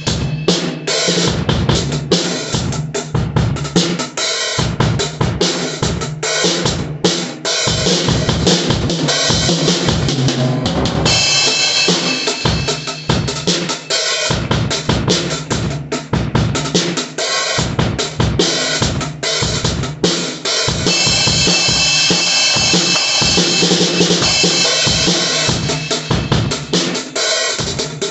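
Acoustic drum kit played in a steady groove: bass drum, snare and hi-hat, with crash and ride cymbals washing over the beat, heavier about eleven seconds in and again near the end.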